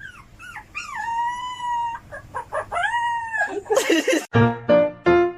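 A rooster crowing twice, each crow ending on a long held note. A brief noisy burst follows, then music with a steady beat starts near the end.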